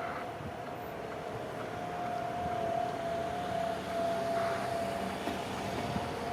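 Outdoor warning siren sounding a steady alert tone: one held note, wavering slightly in pitch, with a slow rise and fall in level.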